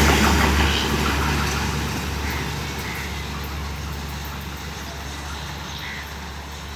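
An intercity train with LHB coaches rumbling away after passing, its low rumble fading steadily.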